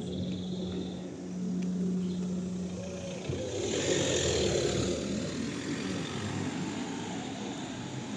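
A motor vehicle running with a steady hum. About three and a half seconds in, a louder swell of engine and tyre noise comes as it passes, then slowly fades.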